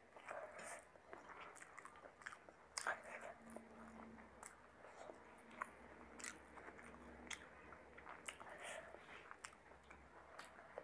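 Close-miked chewing of a mouthful of chicken biryani eaten by hand, with irregular sharp mouth clicks, one louder click about three seconds in.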